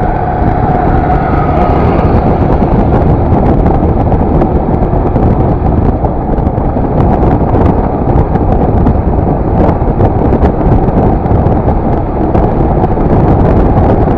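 Steady riding noise from a Yamaha FZS V3 motorcycle under way: wind rushing over the microphone mixed with the engine running.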